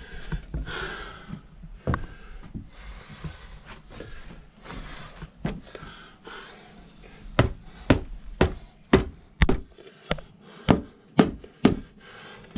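Scattered knocks and scraping, then from about halfway a run of about ten sharp hammer blows, roughly two a second, as a motorcycle tire is forced off its rim by hand.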